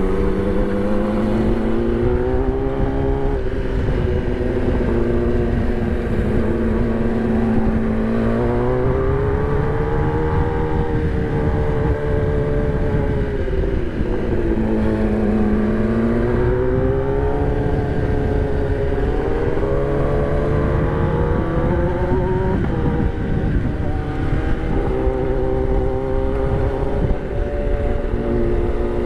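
Kawasaki ZX-10R's inline-four engine running at speed, its revs rising and falling again and again as the throttle is rolled on and off through the bends. Wind rushes over the microphone.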